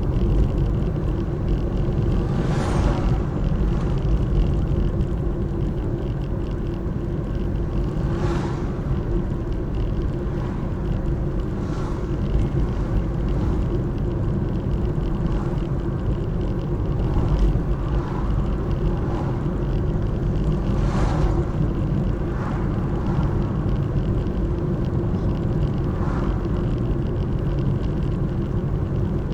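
Steady low road-vehicle rumble, with a few brief swishes of vehicles passing.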